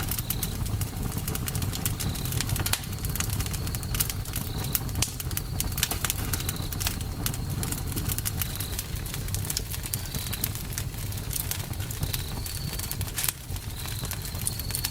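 Campfire burning, wood crackling and popping irregularly over a steady low rumble of the flames. Short high chirps recur every second or two.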